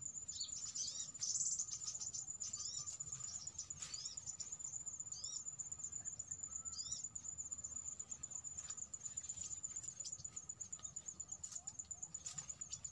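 A steady high-pitched insect trill, pulsing rapidly and evenly, with short slurred bird chirps in the first half.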